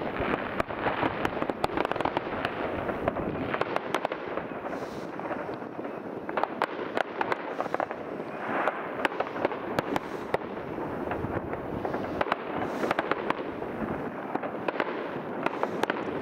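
Fireworks and firecrackers going off all over at once: a continuous rumble and crackle of overlapping bangs, with many sharp reports every second.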